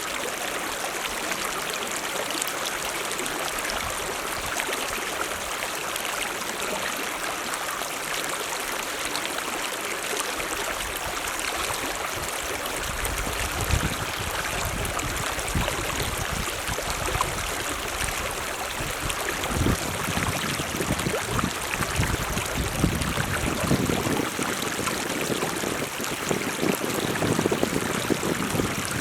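Mountain stream running, a steady rush of water. From about halfway, irregular low bumps and rumbles join in.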